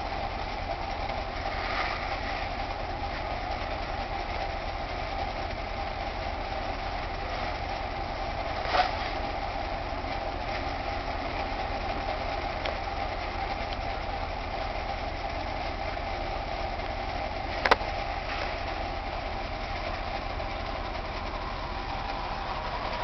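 Car engine idling with a steady hum. Two sharp clicks come through, one about nine seconds in and a louder one near eighteen seconds.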